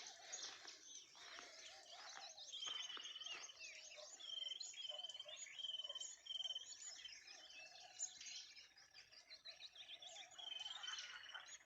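A mixed chorus of many wild birds chirping and calling over each other, with one bird repeating a short whistled note about five times through the middle.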